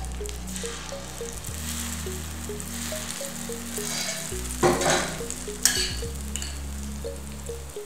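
Hot oil sizzling and bubbling around batter frying in the cups of a dimpled hoy krok (kanom krok-style) pan, as fresh batter is dropped into the empty centre cups. The sizzle flares louder twice about two-thirds of the way through.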